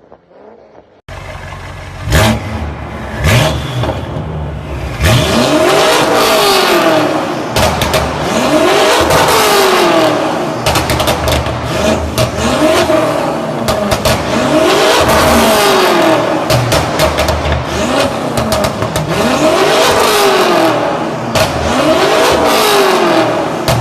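BMW X5 M F85 twin-turbo V8, stage 2 tuned, revving through its exhaust: two short blips, then about seven long revs, each climbing and falling back, with sharp crackles between them.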